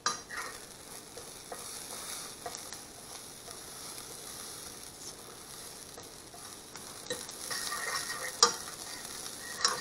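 Diced vegetables sizzling in a hot frying pan as a fork stirs them, with light clicks and scrapes of the fork against the pan and one sharper click near the end. The vegetables are close to done, still a little firm.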